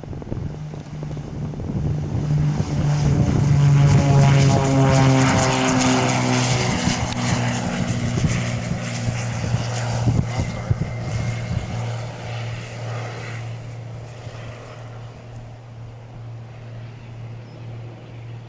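Cessna 414 Chancellor's twin piston engines and propellers at takeoff power, growing louder to a peak about four seconds in as the plane passes. The propeller drone drops in pitch as it goes by, then fades steadily into the distance.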